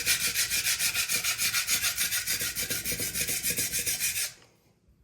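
Kitchen knife edge being ground on a sharpening stone in quick, even back-and-forth strokes, a steady rhythmic scraping that stops abruptly near the end, once a burr has formed along the edge.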